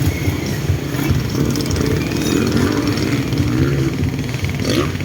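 Motocross dirt bike engines running on a practice track, the engine pitch rising and falling as the throttle is worked.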